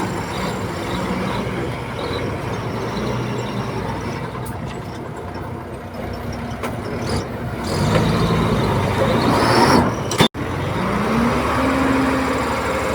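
Heavy diesel engines of earthmoving machinery running under work. About ten seconds in, the sound drops out for an instant, then an engine revs up and holds at the higher speed.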